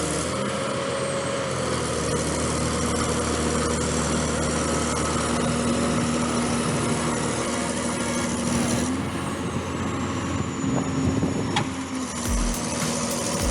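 Large bulldozer's diesel engine running steadily, with a sharp click near the end.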